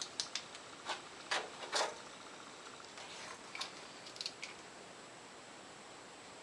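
Faint scattered clicks and light metallic knocks from handling steel stock and tools while setting a bar up to cut. Several come in the first two seconds and a few more around the middle, with quiet between.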